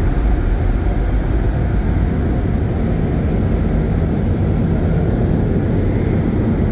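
High-powered car wash air dryers blasting the van, heard from inside the cabin as a loud, steady rush of air heavy in the low end.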